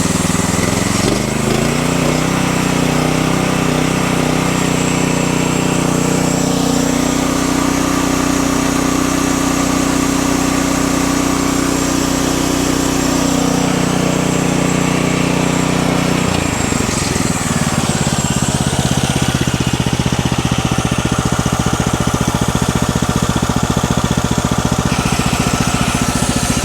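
Wood-Mizer LX50 Super sawmill's small gasoline engine running. It speeds up about a second in, holds a steady high speed, then drops at about 16 seconds to a lower, pulsing idle. The band blade keeps turning at idle because the clutch is not disengaging.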